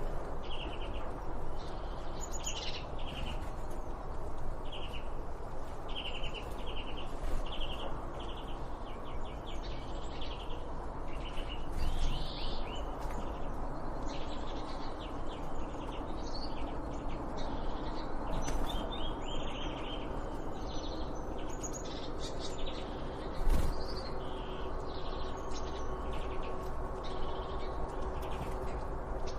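Several birds chirping and singing in short, quickly repeated notes over a steady background hiss. One brief low thump comes late on.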